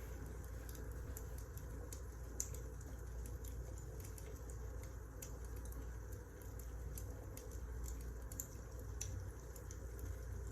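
Wood fire crackling in a fireplace: irregular small sharp pops and snaps over a low steady rumble.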